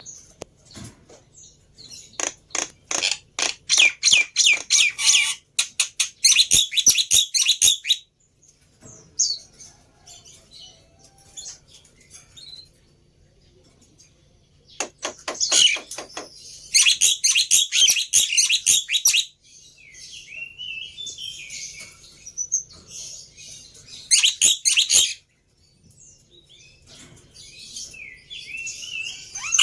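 Black-winged myna (jalak putih) singing: loud bursts of rapid, harsh chattering notes, three times, with softer whistled phrases between them. This is lure song, played to coax a quiet jalak into answering.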